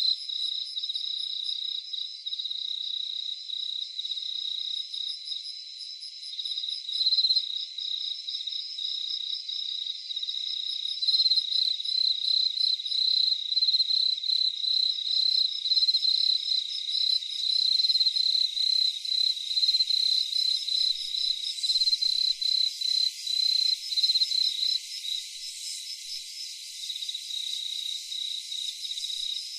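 A chorus of crickets, several insects chirping in fast, rapid pulses at once, one high chirp above the rest, with no low sounds under them.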